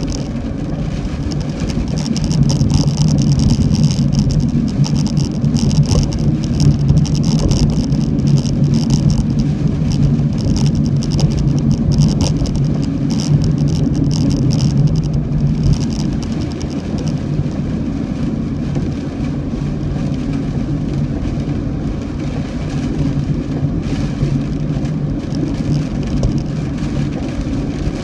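A car driving through typhoon rain: a steady low road and engine hum, with heavy rain hitting the car as a dense crackle.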